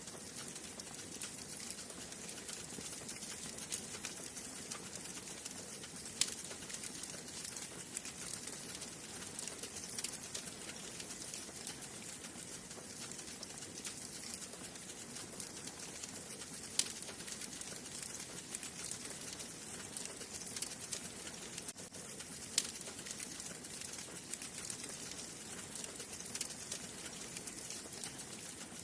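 Wood fire burning in a fireplace: a steady hiss with constant small crackles and a few louder sharp pops.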